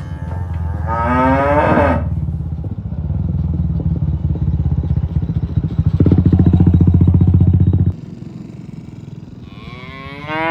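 Cattle mooing: two long moos, one about a second in and another starting near the end, over a low steady rumble that cuts off about eight seconds in.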